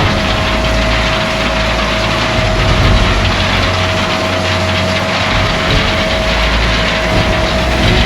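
Large vehicle engine running steadily under a loud rumble, with a constant whine held at one pitch.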